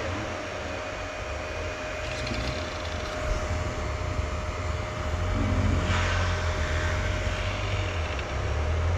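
Dirt bike engine running with a steady low rumble under a constant hiss of wind noise, a little louder for a few seconds from about three seconds in.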